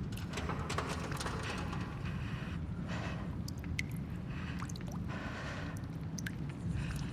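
Abandoned-building ambience: a steady low rumble with passing swells of hissy, airy noise and scattered small drips and clicks, mostly in the second half.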